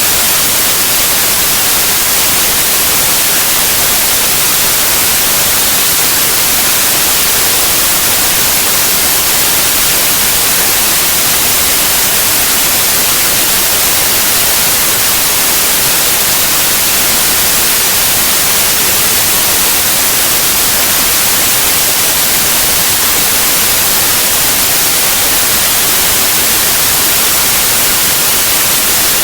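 Steady, unchanging white noise, an even hiss across the whole range, brightest in the highs.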